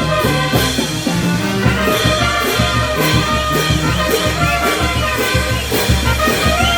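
A Peruvian brass band playing festive music, with held melody lines over a steady beat.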